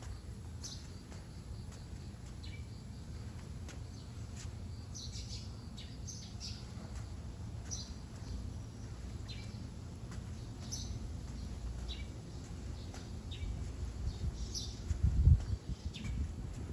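Small birds chirping outdoors: short, high calls every second or so over a steady low rumble. A brief loud low thump about fifteen seconds in.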